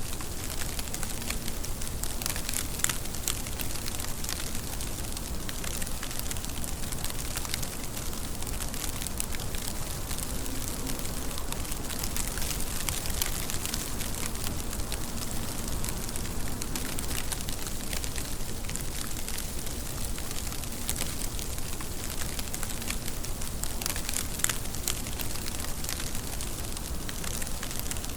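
Steady rain: an even hiss with many sharp drop ticks scattered through it.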